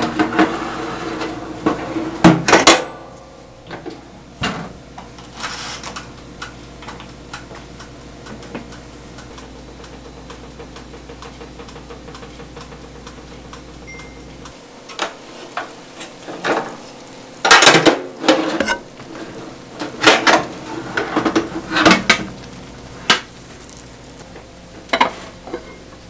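Dishes, pans and utensils clinking and knocking as food is handled in a home kitchen, in irregular clusters of sharp knocks. A low appliance hum cuts off about halfway through.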